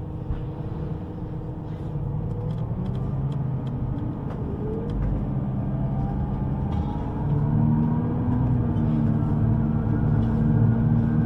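Electric underground train pulling away: a motor whine rising steadily in pitch over a steady rumble, growing louder as the train accelerates.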